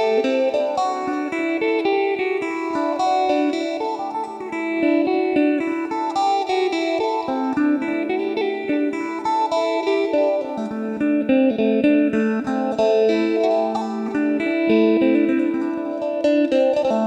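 Electric phin, the Isan three-string plucked lute, playing a quick melody of plucked notes through an amplifier over a steady low open-string drone.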